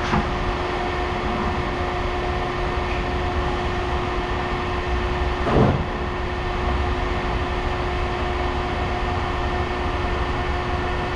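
Steady machinery hum with a constant drone, and a single knock about halfway through.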